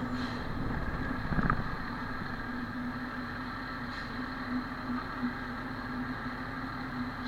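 Fire engine's engine running steadily with an even hum, and a brief knock about a second and a half in.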